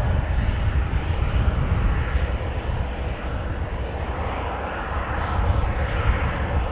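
Airliner engines running at an airport, a steady rushing noise that swells slightly near the end, with wind buffeting the microphone in a low rumble.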